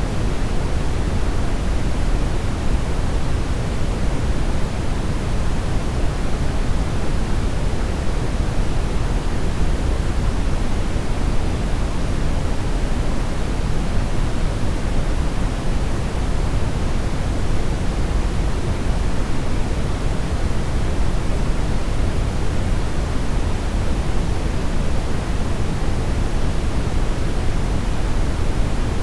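Synthetic brown noise: a steady, even rumbling hiss, strongest in the bass and thinning toward the treble, with no changes.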